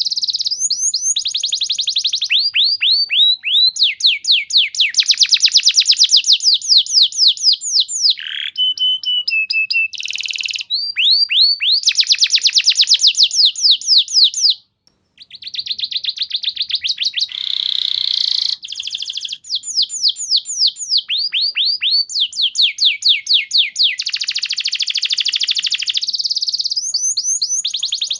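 Domestic canary singing a long song of fast rolling trills, each a rapid run of the same down-sweeping note, changing from one trill to the next. There is a short break about halfway through.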